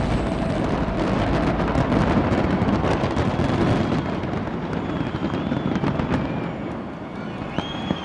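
Dense fireworks barrage: a continuous booming rumble packed with rapid crackles, easing off in the last second or so. A few thin whistling tones glide through the second half.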